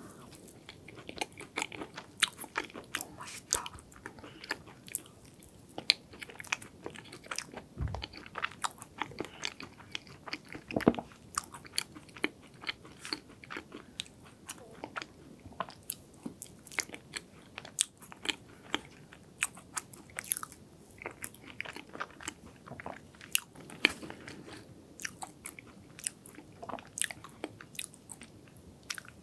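Close-miked chewing of hazelnut chocolate cake, with many small, irregular crunches and wet mouth clicks, and a wooden fork digging through the soft cake.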